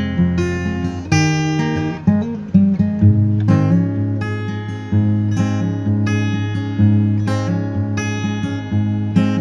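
Background music: acoustic guitar strumming chords, with notes struck every second or so.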